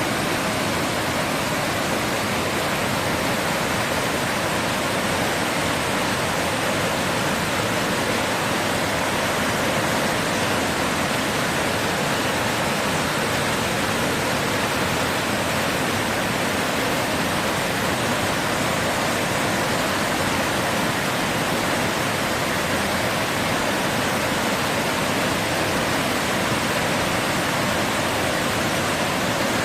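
Sea waves: an even, steady rush of surf with no separate wave breaks standing out.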